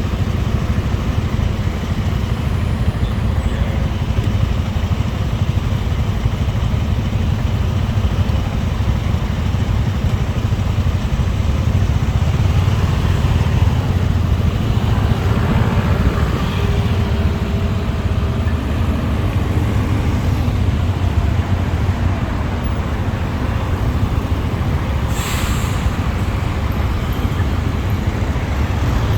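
Motorcycle riding in city traffic: a steady low rumble from the bike and the rush of air, with other vehicles passing. A brief sharp hiss comes about 25 seconds in.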